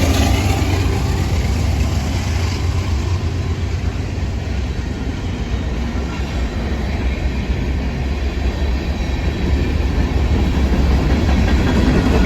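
Train rolling past on the track, a steady rumble of wheels on rail with some clickety-clack. The sound cuts off suddenly at the end.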